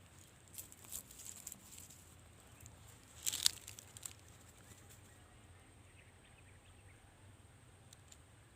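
Faint crackling rustles come in two short spells, about half a second in and about three seconds in, the second the louder. A faint steady high whine runs beneath them.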